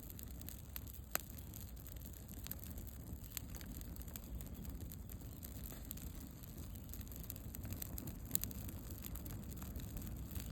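Bonfire crackling: scattered sharp pops and snaps, the loudest about a second in and about eight seconds in, over a steady low rumble.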